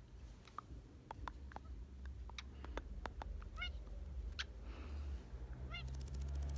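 Indian ringneck parrot making a string of sharp clicks, then short runs of quick, repeated chattering calls about halfway through and again near the end, over a low steady hum.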